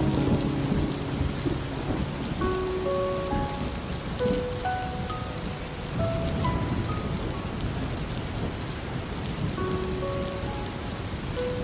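Steady rain falling, with a slow melody of single held notes sounding over it one after another.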